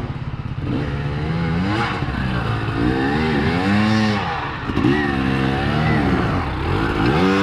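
2016 KTM 350 EXC-F dirt bike's single-cylinder four-stroke engine, running low and fairly even at first, then revving up and down over and over, about once a second.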